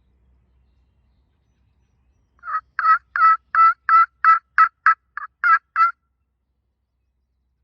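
A series of about eleven wild turkey hen yelps, evenly spaced at about three a second, each a short, loud, pitched note.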